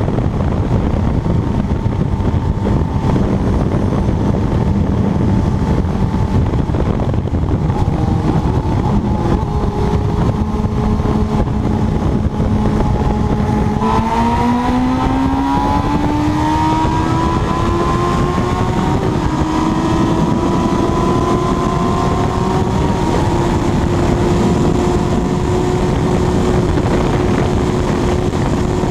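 Kawasaki Ninja sportbike engine running at high speed under heavy wind rush. The engine note holds steady, then about halfway through jumps up and climbs for several seconds as the bike accelerates, and settles at a higher steady pitch.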